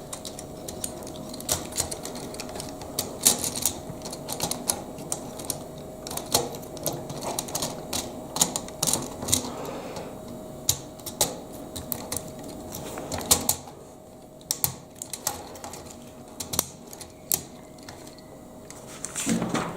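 Lego Technic plastic parts clicking and snapping as they are handled and pressed together by hand: irregular sharp clicks, some louder than others, over a faint steady hum.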